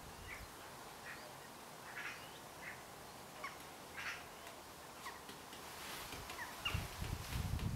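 Faint, short bird calls scattered through a quiet background, a dozen or so single notes, some sliding down in pitch. Low rumbling thumps come in near the end.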